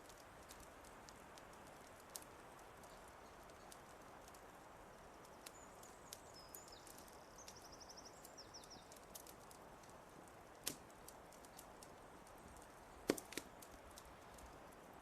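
Wood fire crackling quietly, with scattered sharp pops, the loudest about two-thirds of the way in and again near the end. A small bird gives a brief high-pitched trill about halfway through.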